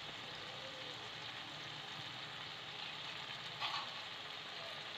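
Peas, tomatoes and spices frying in oil in a kadai, giving a faint, steady sizzle, with one brief tap about three and a half seconds in.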